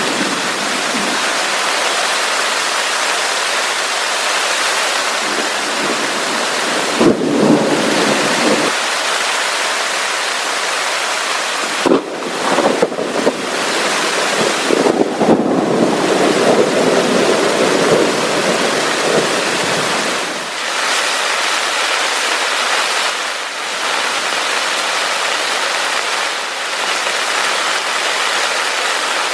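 Heavy rain falling steadily, with thunder rumbling about seven seconds in and again for several seconds through the middle.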